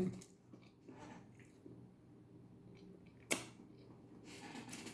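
Faint eating noises from a person chewing a mouthful of food, with one sharp click a little over three seconds in.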